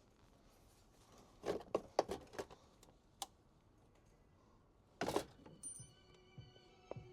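Sharp clicks and knocks: a quick cluster about a second and a half in, a single click a little later, and a louder knock about five seconds in. Faint music begins near the end.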